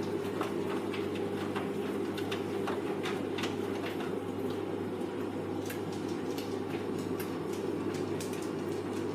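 Hoover Vision Tech VT 914 D22X washing machine running its wash, the drum turning with a steady motor hum and frequent irregular clicks and knocks from the tumbling load.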